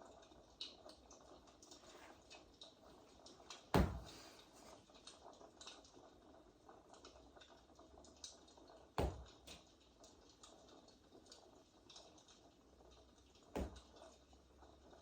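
A pet rabbit banging three times, each a loud, short thump, about five and then four and a half seconds apart, over the faint steady crackle of a fireplace recording. The banging is the rabbit demanding to be played with.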